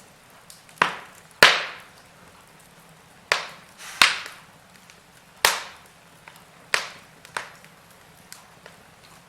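Wood fire burning in a fireplace: faint crackling with a series of sharp, loud pops, about seven of them, each dying away quickly.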